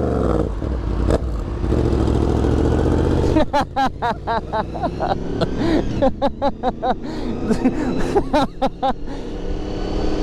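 Motorcycle engine running, its pitch falling just at the start, then dropping away about three seconds in. A quick run of short rising-and-falling pitched sounds with sharp clicks follows.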